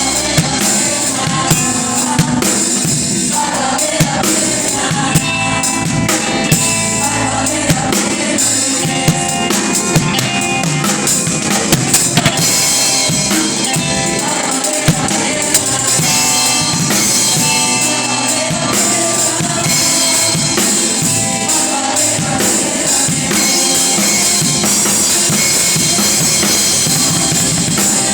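Live band music with a drum kit playing throughout, sharp snare and rimshot hits standing out above bass and other instruments.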